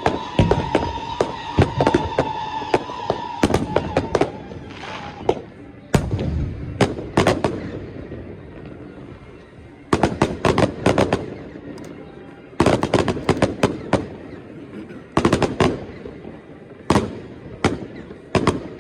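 Aerial firework shells going off in volleys of sharp bangs, one cluster every two or three seconds with short quieter gaps between. A steady high whistle sounds under the first few seconds.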